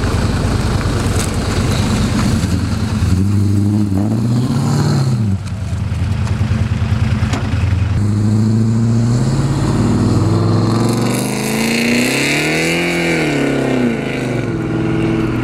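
Car engine running and accelerating, its pitch rising and falling several times as it revs up and eases off, heard from inside a moving car.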